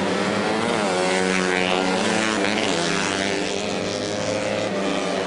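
Several racing motorcycle engines revving high as bikes race past, the pitch sweeping up and then down again several times.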